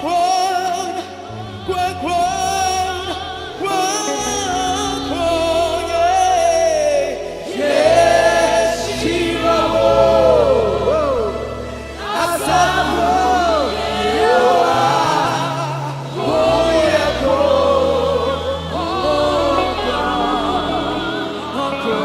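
Gospel song: sung vocal lines with vibrato over a sustained bass accompaniment.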